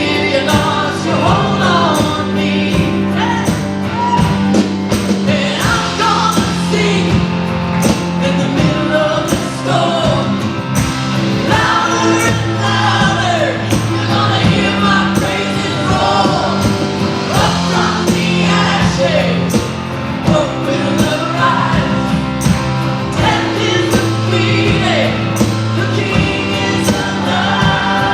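Church worship band playing a song with singing, over a steady drum beat and held bass notes.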